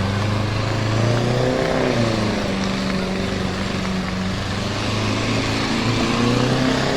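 Tractor engine running hard under load, its pitch rising and falling as the revs change.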